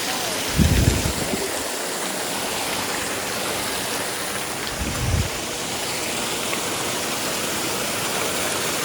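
Valley stream water rushing steadily, with two brief low rumbles, about a second in and again about five seconds in.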